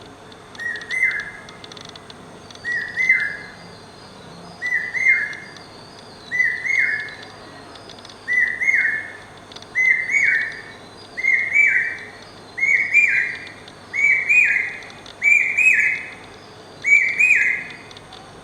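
Common hawk cuckoo (brain fever bird) singing its three-note phrase about eleven times. The phrases come slightly higher, louder and closer together each time. Fainter, higher chirps of other small birds are heard behind it.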